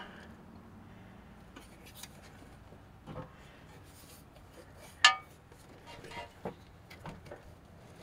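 Scattered metallic clinks and knocks of metal parts being handled, the loudest a sharp ringing clink about five seconds in.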